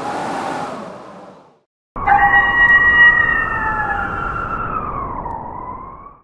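A whooshing rush that fades out, then after a short break a loud, siren-like wail on several steady pitches at once that slides down near the end and cuts off abruptly.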